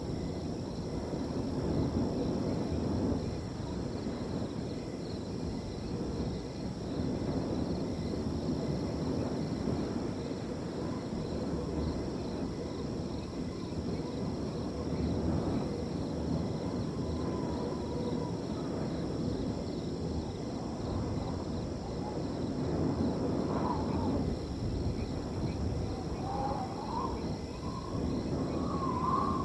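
Wind blowing across a field in gusts, with crickets trilling steadily. From about halfway through, a few short wavering calls from an animal join in, more often near the end.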